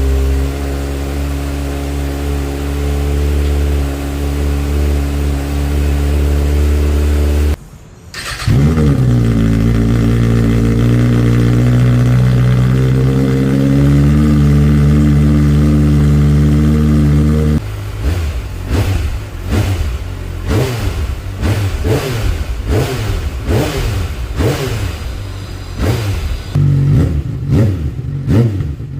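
Kawasaki Ninja ZX-6R inline-four engine and exhaust running at a steady speed, cutting out briefly about 8 seconds in. It returns, climbs a little and holds steady again. About halfway through it switches to quick, repeated throttle blips, each rev rising and falling sharply.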